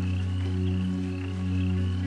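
Slow ambient music of held low drone chords, with a short rising chirp repeating about twice a second over it and a soft hiss of rain underneath.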